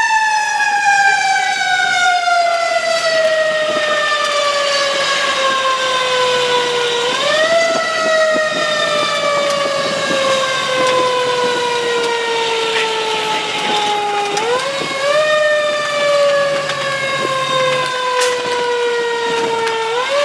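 Fire engine siren: a long falling wail that slowly winds down over about seven seconds and is then quickly spun back up, twice, with a third rise near the end. A low truck engine rumble runs underneath.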